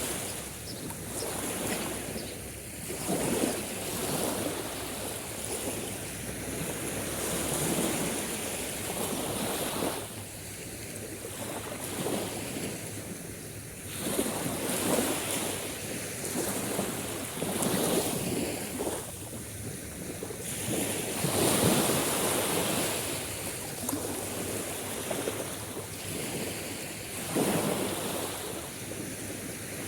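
Sea waves breaking and washing on the shore, a steady wash of surf that swells every few seconds, with wind noise on the microphone.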